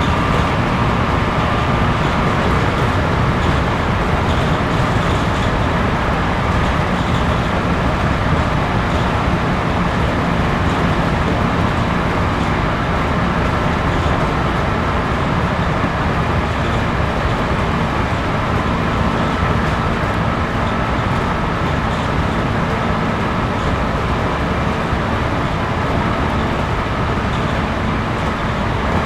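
Cabin running noise of a 211 series 5000-subseries electric multiple unit travelling at steady speed: a continuous, even rumble of the wheels on the rails, with no stops or sudden sounds.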